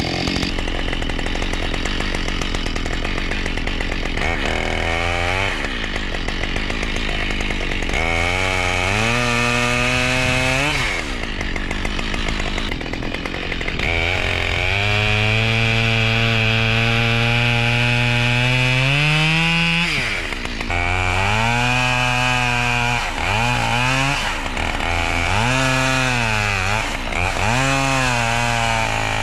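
Two-stroke chainsaw cutting firewood, its engine revving up and dropping back again and again as the throttle is squeezed and released, with longer full-throttle runs while it cuts.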